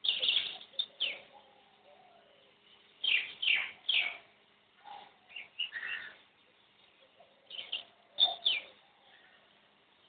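Wild birds calling in bouts of short, quick notes, many of them falling in pitch, with a pause of a second or two between bouts.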